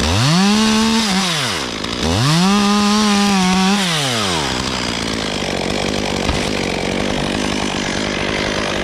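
Chainsaw run up to full throttle twice, each time rising, held for about a second and a half and falling away, then dropping back to a steady idle for the rest of the time.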